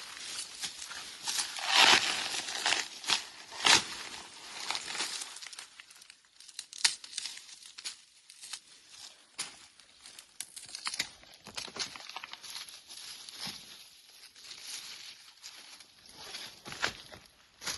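Irregular crackling and rustling with sharp clicks, loudest and densest in the first four seconds and thinning out after about five seconds.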